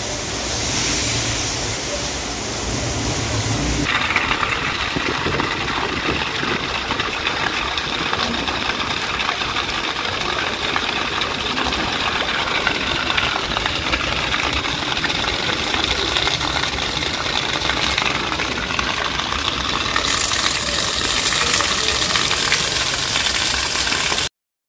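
Heavy rain splashing onto standing water, a steady dense hiss of drops. About four seconds in it changes to a denser, brighter splatter of rain on a flooded concrete floor, and it cuts off suddenly near the end.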